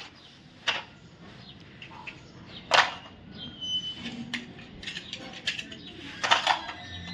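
Scattered short clicks and clatters, a second or more apart, with a cluster near the end and a brief high chirp about halfway through.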